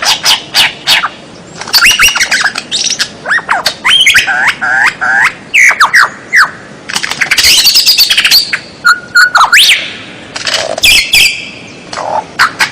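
Recorded songbird calls for training cage birds: a dense run of loud chirps, squawks and quick falling whistles, one after another with only brief pauses.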